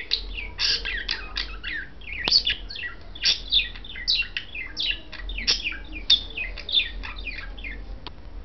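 Pet budgerigars chirping in a rapid, continuous chatter of short sweeping notes, which stops near the end.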